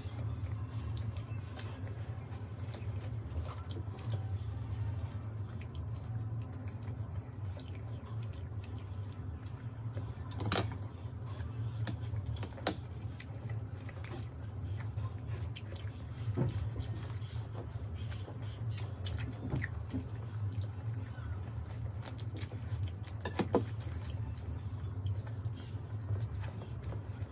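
Close-up eating sounds of two people chewing soft food (methi paratha with potato sabzi, and syrupy rasgullas), with a few sharp clicks scattered through, over a steady low hum.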